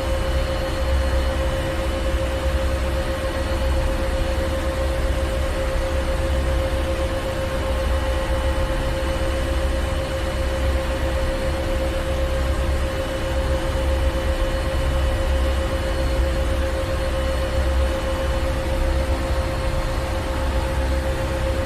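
Ship engine room: heavy marine machinery running steadily, a deep rumble with a steady mid-pitched hum and fainter higher tones over constant mechanical noise.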